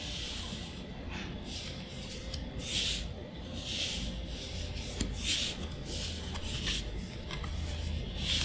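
Magic: The Gathering cards being slid across one another as they are flipped through one at a time, a soft swish about every second and a half.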